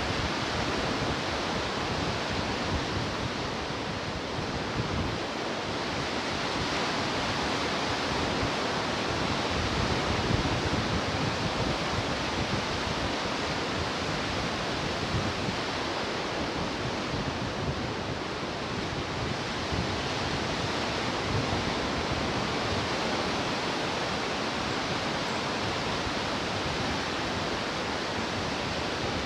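Ocean surf breaking and washing ashore: a steady rushing hiss of waves with no distinct crashes, swelling slightly louder now and then.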